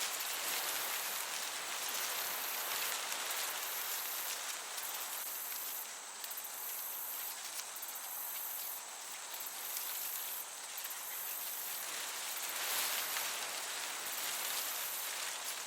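Crickets chirping in a continuous high trill, broken now and then by short gaps, over a steady hiss of breeze.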